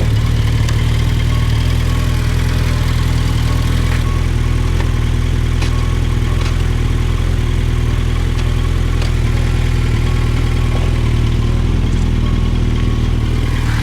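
Suzuki GSX1250FA's inline-four engine idling steadily just after being bump-started on a flat battery.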